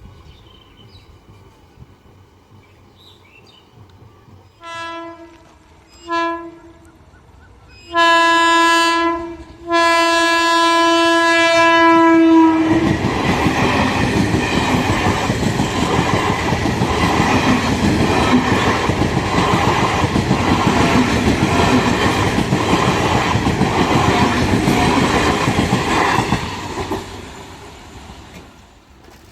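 Indian Railways train horn: two short toots, then two long blasts, the last and loudest about two and a half seconds. The train then passes at speed, its wheels clattering over the rail joints for about fourteen seconds before fading away.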